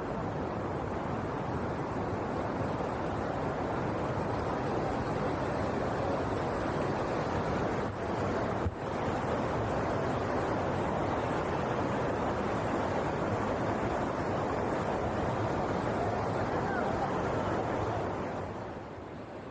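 Steady rushing water, broken by two brief dips about eight and nine seconds in and growing a little quieter near the end.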